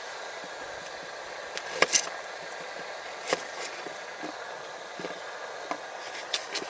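A few sharp clicks and knocks over a steady background hiss, the loudest a quick pair about two seconds in, another a second later and two more near the end.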